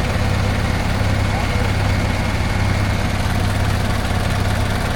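Off-road trial truck's engine idling steadily, a low, even hum with no revving.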